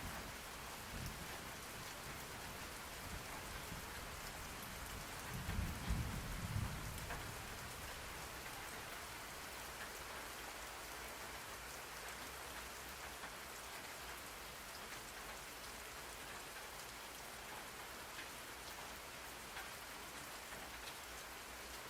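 Steady rain falling, a continuous even hiss, with a low roll of thunder rumbling briefly about five seconds in.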